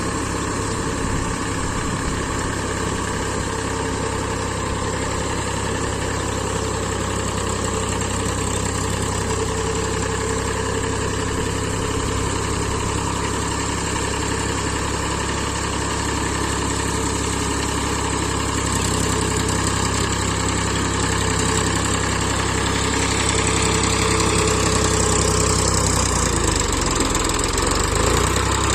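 Powertrac 445 DS Plus tractor's diesel engine running steadily, getting somewhat louder about two-thirds of the way through.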